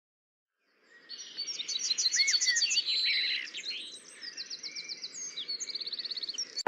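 Birdsong: a mix of quick chirps and rising and falling whistles starting about a second in, ending in a fast trill of repeated notes.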